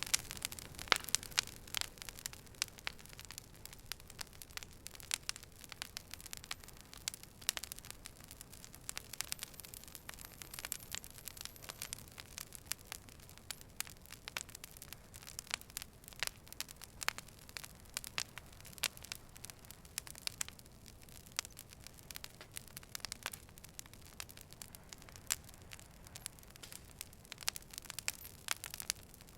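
Wood fire burning: irregular sharp crackles and pops over a low steady hiss, with the pops densest near the start.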